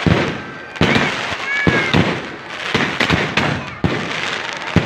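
Fireworks display: rapid, irregular bangs and crackles overlapping one another, with a few brief high-pitched squeals among them.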